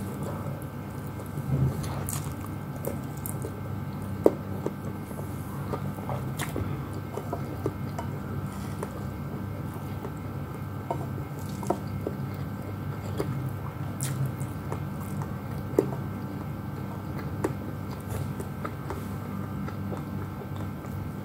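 A person chewing and biting chicken and rice, eaten by hand, with scattered short mouth clicks over a steady hum. Two sharp clicks stand out, about four and sixteen seconds in.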